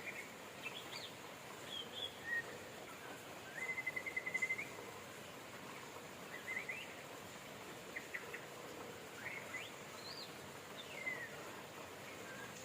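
Songbirds chirping with short calls and rising and falling whistles over a steady rain hiss. About three and a half seconds in, a rapid trill of evenly spaced notes lasts about a second and is the loudest call.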